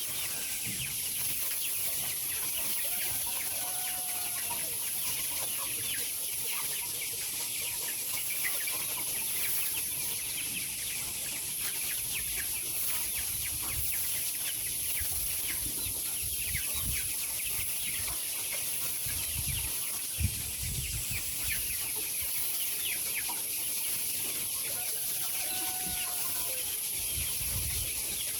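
A flock of chickens in a poultry house, many birds cheeping and clucking at once over a steady high-pitched whine. A single sharp knock about twenty seconds in.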